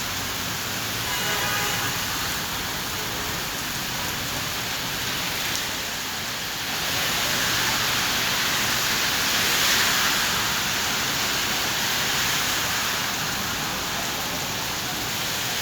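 Heavy rain pouring down in a steady hiss, growing louder for a few seconds around the middle before easing slightly.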